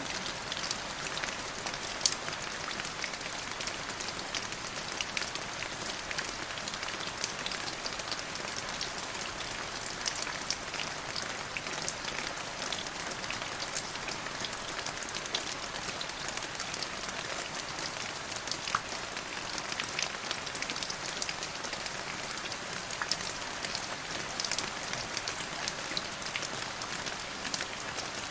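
Steady rain falling: an even hiss with many separate drop impacts ticking through it.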